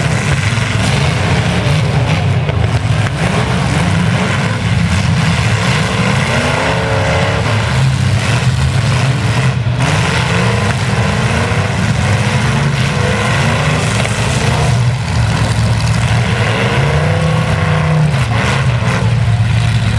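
Demolition derby trucks' engines running loud, with the revs rising and falling several times as they accelerate.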